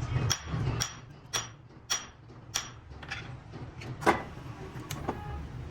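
A run of sharp taps, about one every half second and unevenly spaced, the loudest about four seconds in, over a low steady hum.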